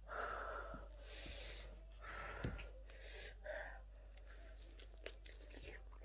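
Close-up eating sounds of a spicy chicken wing being chewed and the meat torn off the bone, in several short noisy bouts with small clicks between.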